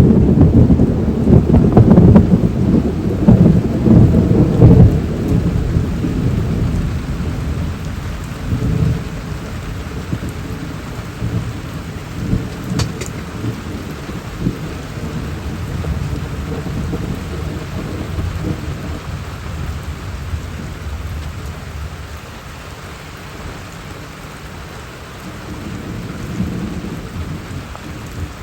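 Rain falling steadily under a long roll of thunder that is loudest in the first five seconds and slowly dies away, leaving the hiss of the rain; a fainter rumble comes in near the end.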